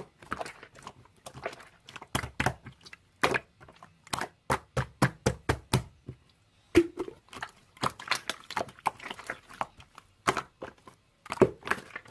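Slime being squeezed and poked by hand, making many short, sharp clicks and pops in irregular runs, with a brief pause about halfway through.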